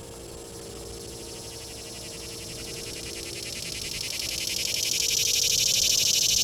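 Kalitta Air cargo jet coming in to land, its jet engine noise growing steadily louder as it approaches, a high hiss building over the whole stretch.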